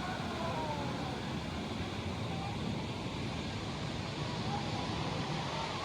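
Steady rushing and splashing of water-park water, with faint distant voices calling out now and then.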